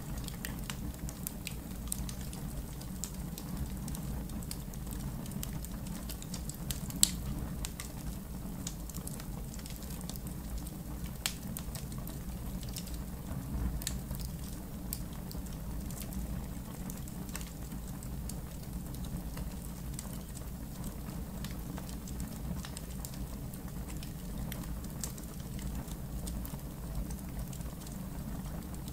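Campfire crackling, with scattered sharp pops over a low, steady rumble of the flames; one much louder pop about seven seconds in.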